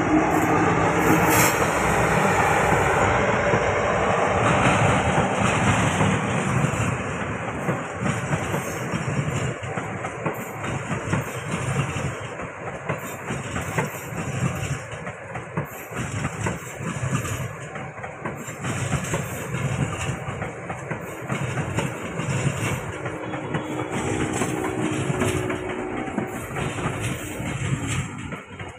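A train passing on the rails, its wheels clattering over the track with a steady run of clicks and rumble, loudest for the first several seconds and then easing off a little.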